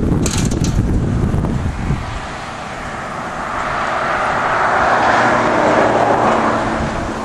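Wind buffeting the microphone, then a vehicle passing: its road noise swells for a few seconds and fades again near the end.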